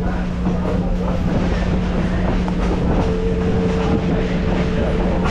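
A passenger train rolling along the track, heard from an open railcar: a steady rumble and hum with the clickety-clack of wheels over the rails. A second, higher steady tone joins about three seconds in.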